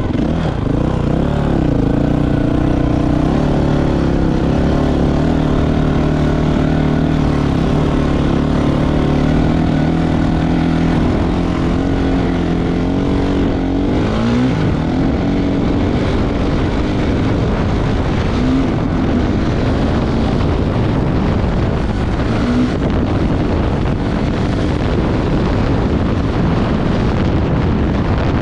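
Off-road racing vehicle's engine running hard at speed, its pitch steady at first, then shifting about halfway through and turning rougher with rushing noise in the second half.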